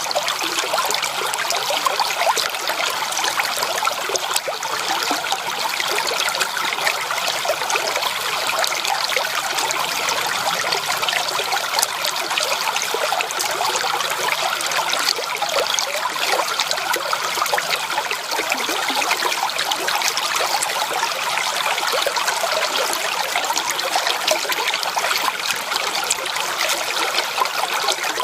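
Creek water trickling and babbling steadily, a constant wash of small splashes.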